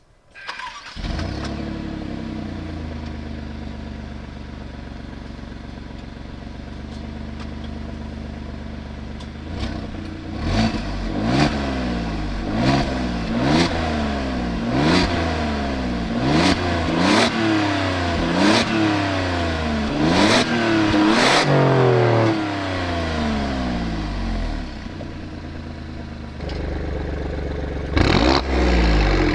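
Alfa Romeo Giulia Quadrifoglio's twin-turbo V6 starting with a flare, then settling into a steady idle. It is then revved in about a dozen quick blips, each climbing fast and dropping back, with sharp cracks at the top of the revs. It settles again and is revved once more near the end.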